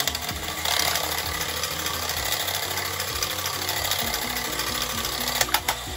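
Horikawa Mars King battery-operated tin toy robot running, its motor and gearbox making a steady rattling whir. A few sharp clicks come near the end.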